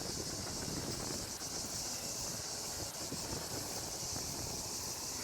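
Steady, high-pitched hissing buzz of a cicada chorus, unbroken throughout, over a faint low rumble.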